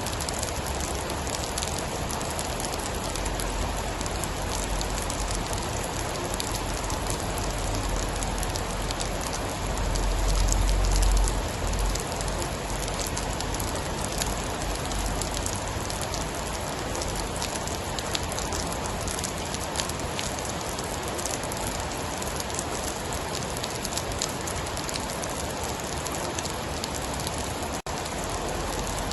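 Steady rain pattering, with a low rumble that swells and fades about ten seconds in.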